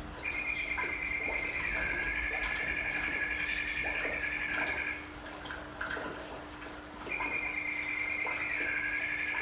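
Trickling water with drips, under a long warbling, whistle-like trill that steps down in pitch partway, breaks off after about five seconds and starts again about two seconds later. A faint steady hum runs underneath.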